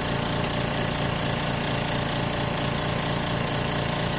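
Portable washer's spin dryer running steadily on a timed spin: a constant motor hum with an even low throb.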